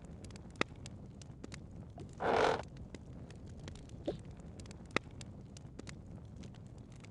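Handling noise: small clicks and knocks over a low rumble, with a brief rustle a little over two seconds in.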